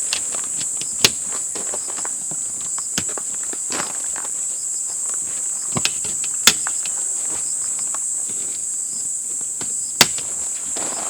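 Steady high-pitched chorus of insects, with scattered sharp clicks and knocks over it, four of them louder.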